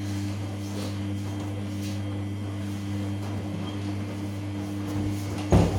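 Samsung P1271 front-loading washing machine running with a steady low electric hum, and one short knock about five and a half seconds in.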